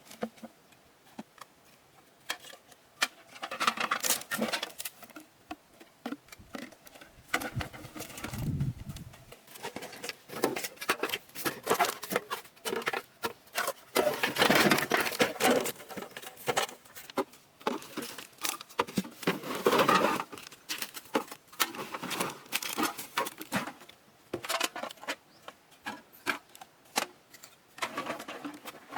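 Handling noises: a busy, irregular run of clicks, taps and rustling, with louder spells of rustling three times.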